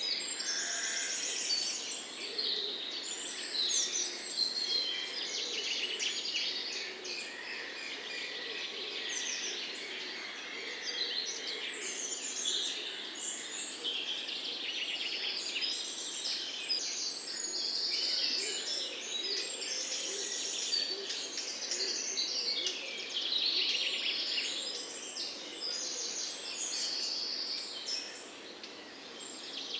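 Many songbirds chirping and singing together in a dense, unbroken chorus of quick high trills and twitters, with a few lower calls underneath.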